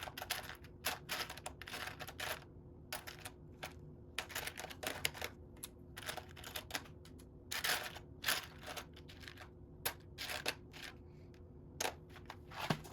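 Irregular clicking and rustling of hands handling loose plastic Lego pieces, in quick uneven bursts with a louder click near the end.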